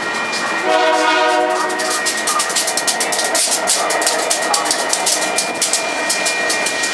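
A train passing at speed: one short horn blast about half a second in, lasting just over a second, followed by a rapid, even clatter of wheels over the rail joints.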